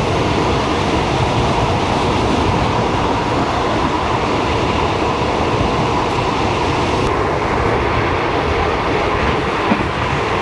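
Old Thai passenger train under way, heard from aboard: a steady, loud running noise of the wheels on the track and the rattling carriage.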